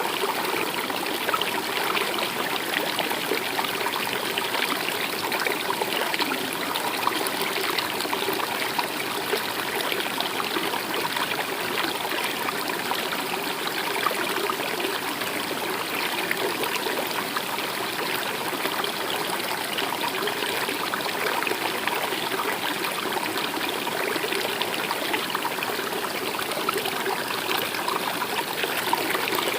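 A stream running and trickling steadily.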